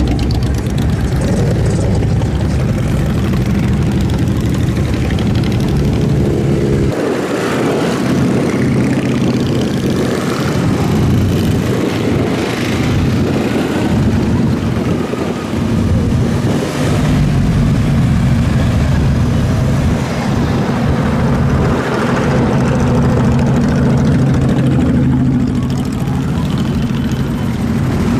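Motorcycle engines running, with a steady drone at the start and end and a noisier, changing stretch in the middle.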